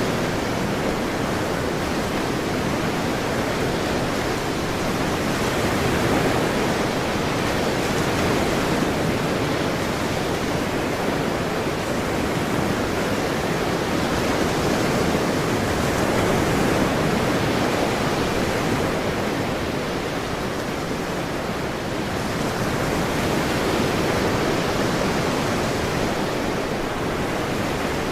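Ocean waves washing on a shore, a continuous rush of surf that swells and eases slowly every few seconds.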